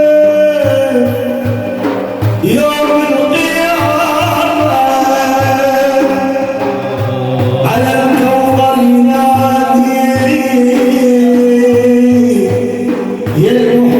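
Sufi devotional praise music (madih): long, held melodic notes, partly sung, gliding from pitch to pitch over a steady drum beat.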